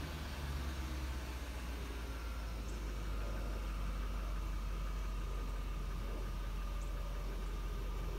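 1998 BMW 740iL's V8 idling steadily just after a cold start: a low, even exhaust hum with a faint steady whine above it.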